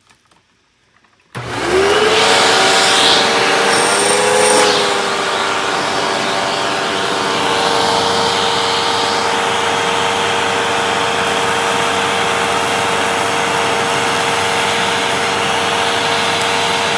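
Hoover vacuum cleaner switched on about a second in, its motor spinning up to a steady whine with air rushing through the hose. The pitch dips briefly and recovers around four seconds in, then it runs steadily.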